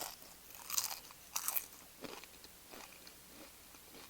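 Close-up crunching of tortilla chips being bitten and chewed: two loud crunches about a second in, then softer chewing crunches.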